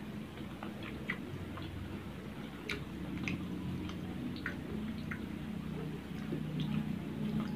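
A person chewing rice and grilled fish, with scattered small, irregular mouth clicks and smacks over a low steady background rumble.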